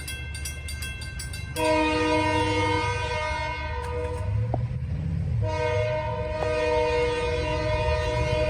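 Diesel locomotive air horn sounding its chord in blasts at a grade crossing: one about two seconds long starting near the beginning, a short pause filled by the low rumble of the passing train, then another blast held into the end.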